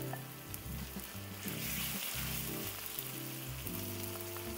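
Thinly sliced chicken breast and garlic sizzling steadily in hot oil in a wok.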